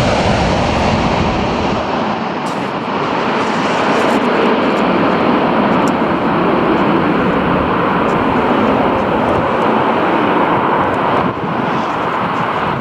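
Airliner engine noise, loud and steady, easing slightly about eleven seconds in.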